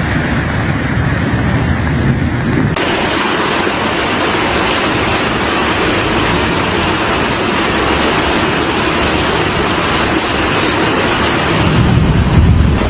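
Loud, steady rushing of floodwater, with no distinct events; the sound changes abruptly about three seconds in as one clip cuts to the next, and a low rumble swells near the end.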